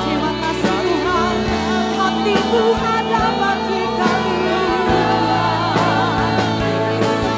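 Live worship band and singers performing a gospel praise song, with voices sustaining long wavering notes over steady chords and drums.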